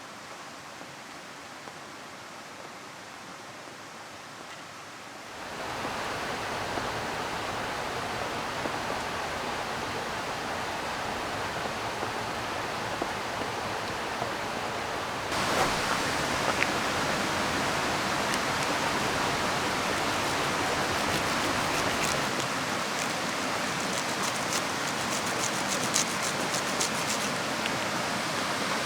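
Steady rushing noise of river water and falling rain, jumping up in level about five seconds in and again at about fifteen seconds. Many small sharp ticks of drops sound in the later part.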